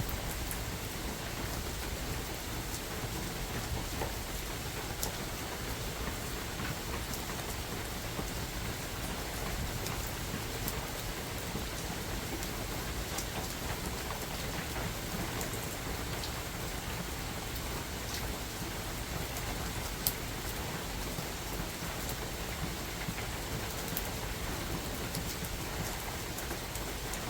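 Steady rain falling in a forest, with single drops ticking sharply here and there; the sharpest tick comes about twenty seconds in.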